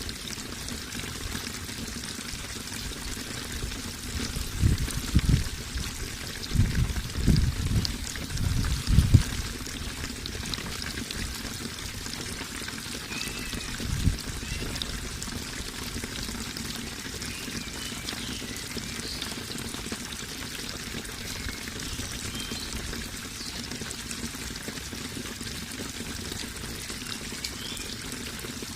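Water flowing and splashing steadily, as a natural stream or small cascade pouring over rocks. A few low thumps come about five to nine seconds in, and one more near fourteen seconds.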